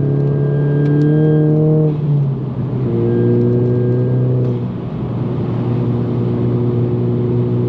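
Volkswagen GTI's turbocharged four-cylinder, running an APR Stage 2 tune with a downpipe, droning steadily under way, heard from inside the cabin. Its note dips and changes pitch twice, about two seconds and about four and a half seconds in.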